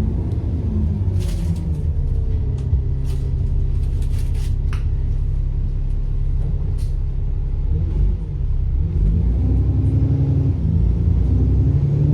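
Bus engine running under a steady rumble, its pitch falling at first as the bus slows, with light rattles and clicks. About eight seconds in the engine picks up again and rises, and a faint high turbocharger whine begins to climb near the end.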